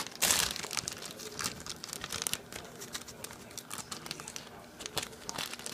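Plastic bag of sliced ham crinkling and crackling as it is handled and pulled at to get it open, a run of irregular crackles, busiest near the start.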